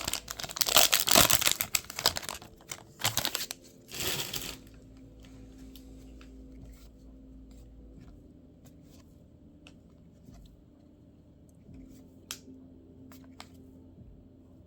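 Foil wrapper of a baseball card pack being torn open and crinkled, loud for the first four and a half seconds. After that, only faint clicks and rustles of cards being handled.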